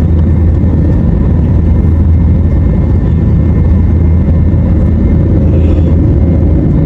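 Jet airliner noise heard from inside the cabin: a loud, steady low rumble of engines and airflow with faint steady tones above it.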